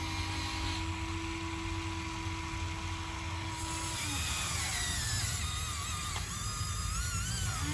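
Electric motors of radio-controlled construction models whining. There is a steady whine for about four seconds, which drops away, followed by several higher whines that waver up and down in pitch, as the motors change speed.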